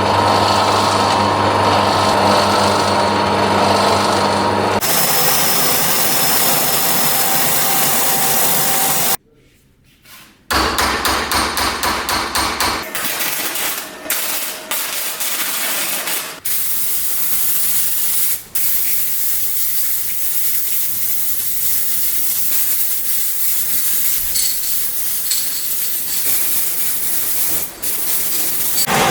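Workshop tool sounds in several cut-together stretches. First a steady motor-driven tool runs, with a short drop to near silence about nine seconds in. Then come rapid, evenly spaced tapping strokes, and then a long hissing, rasping stretch of abrasive or spray work with occasional knocks.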